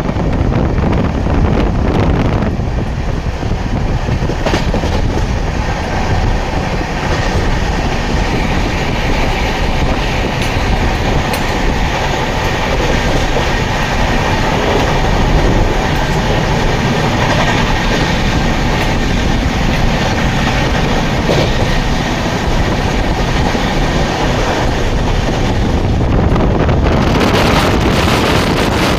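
Passenger train running, heard from aboard: a steady loud noise of the wheels on the rails and the moving carriage. A hiss comes up near the end.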